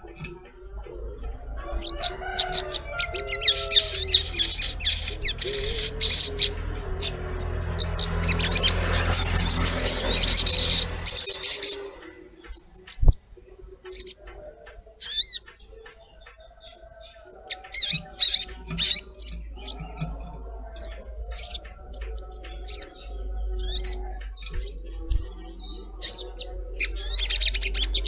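Little spiderhunter (sogon) calling: rapid high-pitched chirps and chattering trills, densest in the first dozen seconds, easing off for a few seconds, then resuming, over a low hum.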